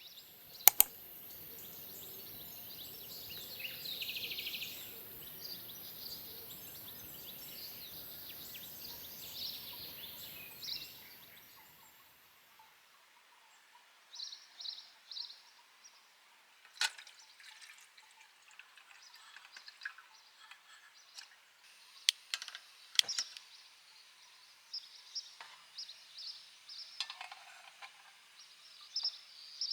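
A steady rushing noise for about the first twelve seconds, then it drops away, leaving birds chirping on and off and a few sharp clicks.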